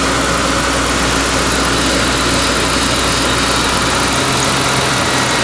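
Ford Thunderbird engine idling steadily with a buzzing noise, which the owner suspects comes from a noisy fuel injector.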